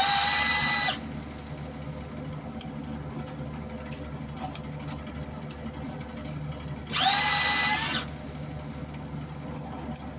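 MIG welder wire-feed motor whirring in two short bursts, one at the start and one about 7 s in. Each lasts about a second, rising in pitch as it spins up and then holding steady. It is being run to test the wire feed after a different drive roller was fitted.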